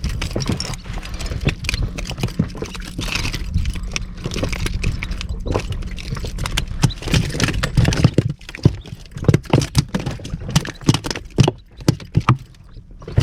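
A rapid, irregular run of knocks, taps and rattles over a low rumble, turning sparser and quieter about eight seconds in.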